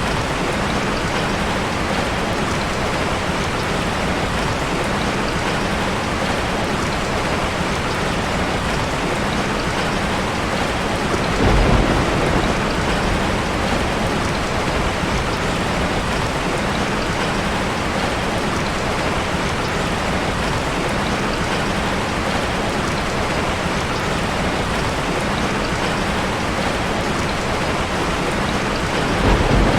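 Steady rain falling, with a short low rumble of thunder about twelve seconds in and another near the end.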